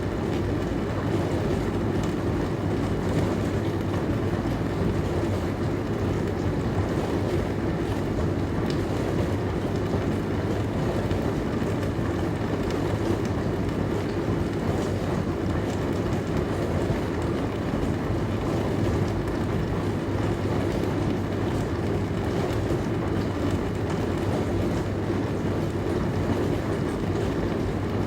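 Dishwasher running: a steady low hum with an even rushing noise.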